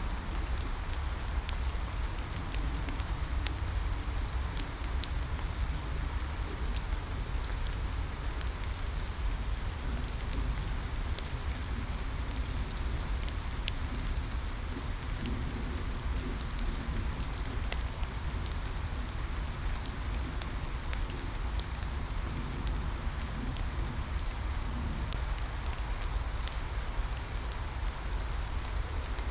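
Steady rain falling on a surface, with a low rumble underneath and sparse sharp crackles from a bonfire scattered through it.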